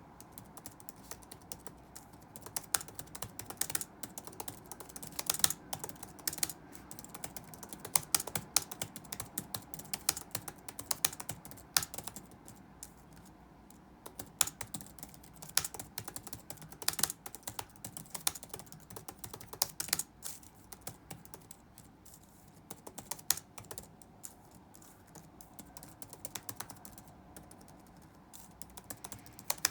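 Typing on a computer keyboard: fast, irregular keystroke clicks in runs, with short pauses between bursts.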